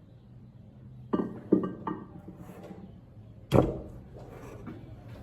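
Three sharp knocks within about a second, then a single louder knock with a short ringing tail: hard parts or tools being knocked together while working on a water pump.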